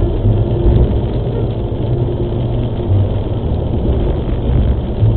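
Steady low rumble of a vehicle on the move: engine and road noise, with no crash or impact.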